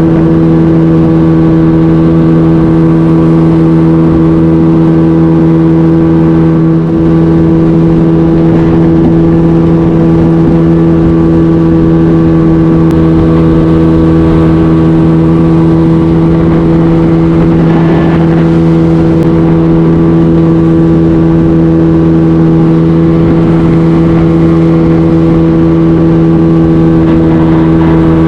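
Jet-drive outboard motor on a jon boat running at a steady, high throttle, its pitch holding constant throughout.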